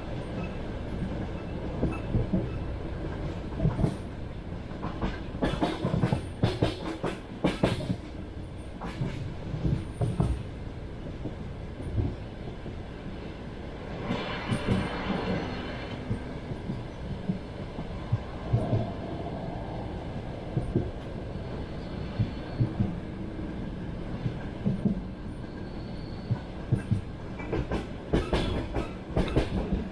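Passenger train running along the track, heard from inside the carriage: a steady rumble with the wheels clacking over rail joints, the clacks coming in quick clusters a few seconds in and again near the end, and a short hiss about halfway through.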